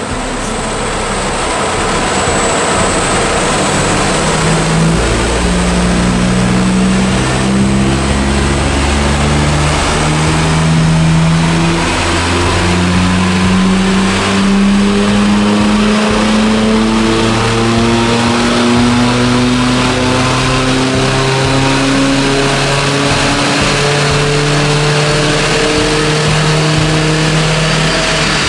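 BMW 123d's twin-turbo 2.0-litre four-cylinder diesel, stage-2 tuned with a downpipe and the DPF removed, pulling under load on a power dyno. Its pitch climbs slowly and steadily through one long power run.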